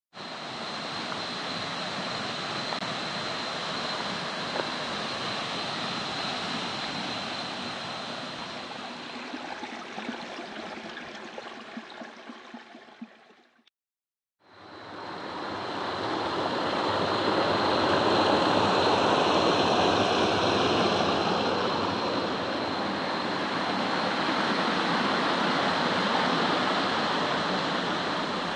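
Waterfall rushing steadily, with a thin steady high-pitched tone above the water. The sound fades out to silence about halfway through, then fades back in louder.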